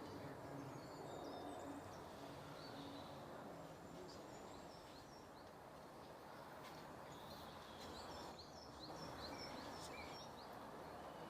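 Faint woodland birdsong: small songbirds chirping and singing over a low, steady background noise, with a run of quick repeated notes about three-quarters of the way through.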